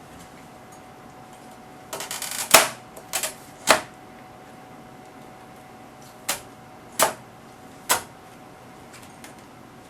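Sharp clicks and knocks of metal instrument covers being handled and fitted back onto an HP 3245A bench instrument: a quick rattle of clicks about two seconds in, then five single knocks spread over the next six seconds.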